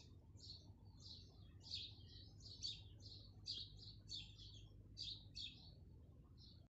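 Birds chirping: many short, high chirps, two or three a second, over a faint low hum that cuts off suddenly near the end.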